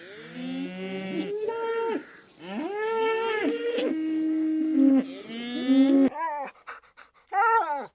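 Several dogs howling together in long overlapping calls that rise, hold and fall. Near the end, a few short yelps.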